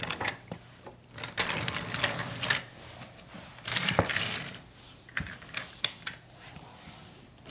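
Toy train rattling and clicking along its track, in irregular bursts of clatter.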